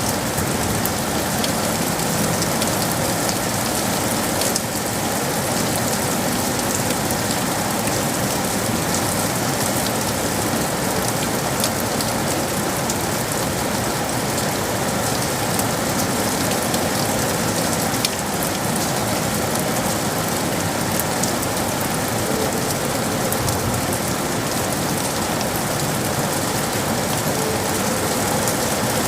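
Steady rain falling and pattering on hard surfaces in a city, an even hiss with fine drop ticks.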